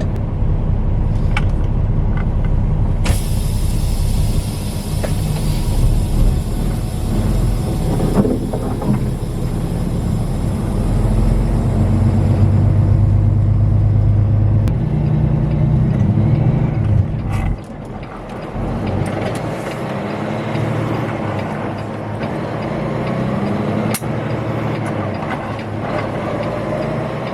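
Peterbilt semi-truck's engine running on the road, heard from inside the cab, its pitch rising and falling as the truck drives. A hiss comes in about three seconds in and fades away, and the low rumble drops off a little past halfway.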